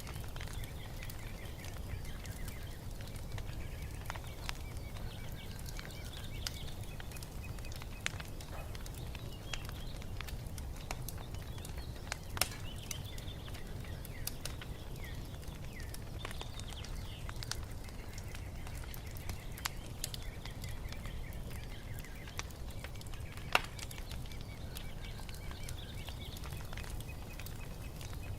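Wood fire crackling with scattered pops over a low steady rumble, with small birds chirping in the background. Two pops stand out louder than the rest, one about twelve seconds in and one about twenty-three seconds in.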